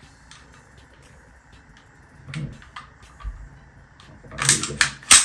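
CZ 52 pistol's steel slide being worked along the frame during reassembly: a few light metal clicks, then a louder scrape and a sharp metallic click near the end as the slide is pulled back.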